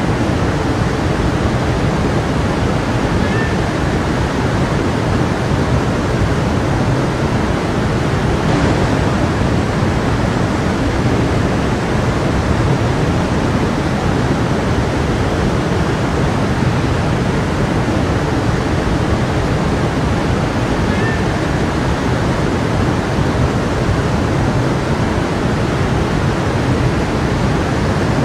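A creek's running water: a steady, even rush of flowing water.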